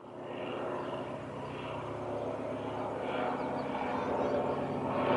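Small propeller airplane's piston engine droning steadily, growing gradually louder.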